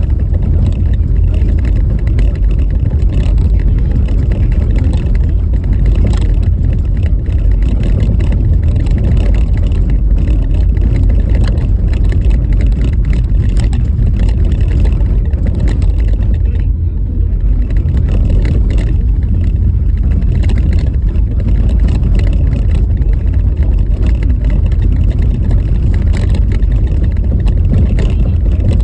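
Car driving on a rough, snowy road surface: a loud, steady low rumble of tyres and road noise with frequent short knocks and jolts from the bumpy pavement.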